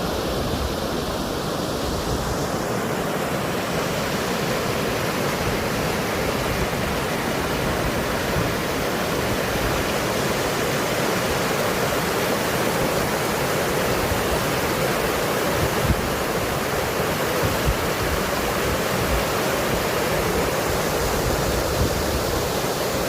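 Steady rushing of running water, with a few soft knocks.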